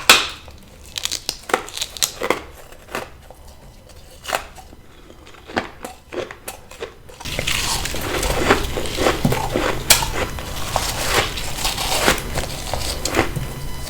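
Ice being bitten and chewed close to the microphone: separate crisp crunches at first, then about seven seconds in a denser, louder run of continuous crunching.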